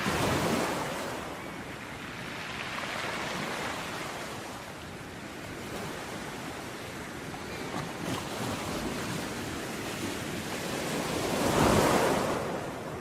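Ocean waves breaking and washing on a shore, the surf rising and falling in swells. One wave crashes just at the start, and a bigger one comes near the end.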